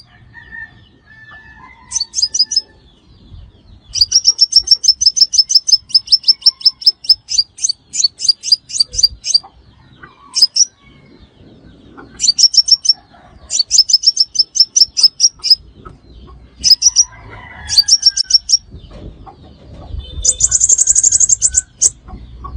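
Sunbird calling: runs of rapid, sharp, high-pitched chips at about eight notes a second, the longest run lasting about five seconds. Shorter bursts follow, ending in a denser, buzzier trill near the end.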